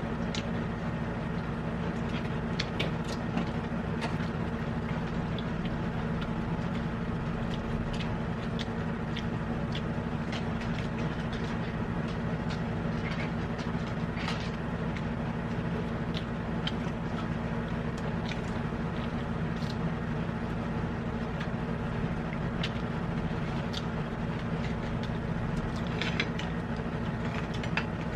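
A steady machine hum, with scattered light clicks and taps of eating and utensils during a silent mukbang meal.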